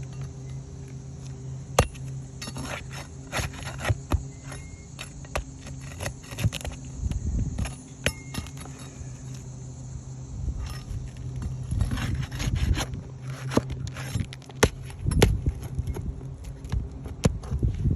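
Scraping, sharp clicks and knocks from hand work on roofing shingles, irregular and busier in the second half, over a steady low hum.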